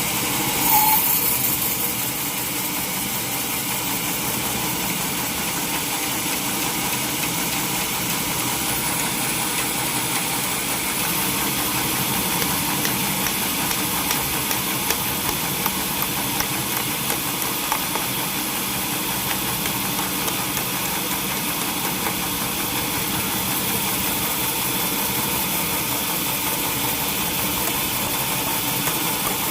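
Sawmill machinery running steadily, a constant engine-like drone under a high hiss. There is a brief louder burst about a second in and faint ticks scattered through the middle.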